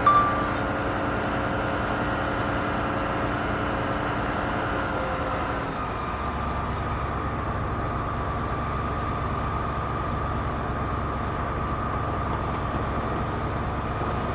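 Engine of heavy concrete-pouring machinery running steadily, with a brief sharp sound at the very start; about six seconds in, its note drops and a deeper rumble takes over.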